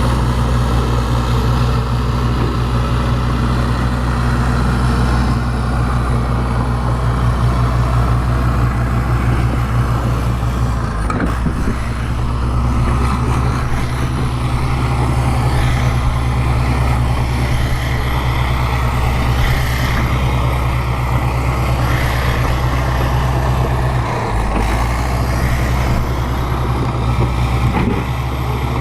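Bulldozer's diesel engine running steadily under load, its note shifting briefly about a third of the way through and again near the end.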